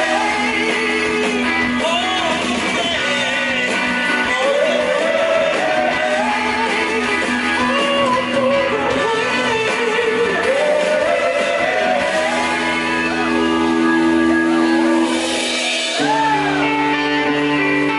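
Live blues-rock band playing loudly, with a bending, gliding lead line over held chords; the chords change at about twelve seconds and again at about sixteen.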